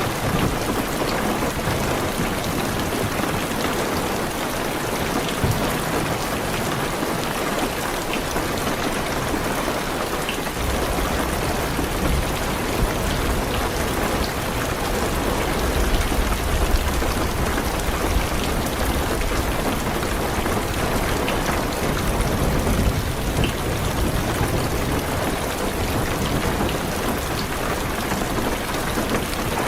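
Steady heavy rain falling on a car's roof and windows, heard from inside the cabin. A low rumble of distant thunder comes in about a third of the way through and swells in the middle.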